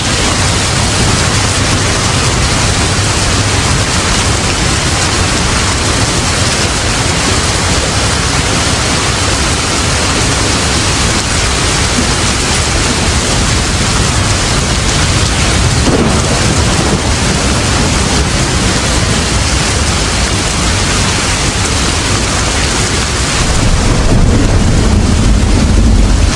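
Steady heavy rain, with a low rumble of thunder swelling near the end.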